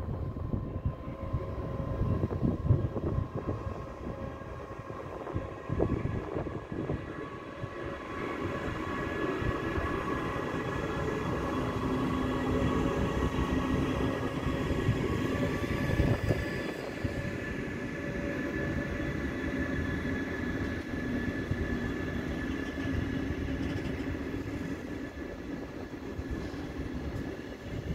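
Metronom double-deck regional train rolling past: a steady rumble of wheels on rails, with a steady high whine over it, growing a little louder about a third of the way in.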